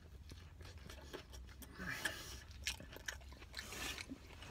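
Faint mouth sounds of a man chewing a mouthful of hot dog and licking his fingers: small wet clicks and smacks, a few a little louder about halfway through, over a steady low hum.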